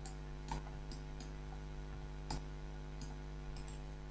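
Scattered faint clicks of a computer mouse and keyboard, about half a dozen irregularly spaced, over a steady low electrical hum.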